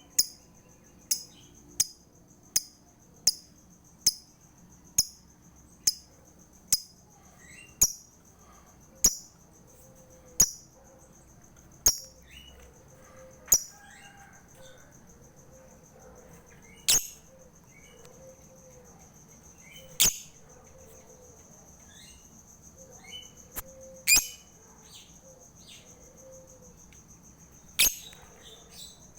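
Lovebird giving single sharp, high-pitched chirps, close together at first, then further and further apart, the gaps growing to several seconds.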